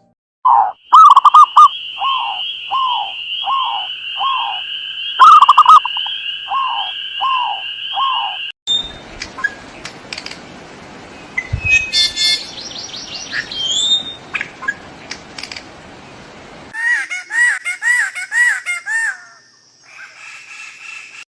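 Several birds calling and singing in spliced segments. First, a short falling note repeated every half second or so over a steady high trill; then a stretch with a background hiss and assorted chirps; then a quick run of repeated chirps.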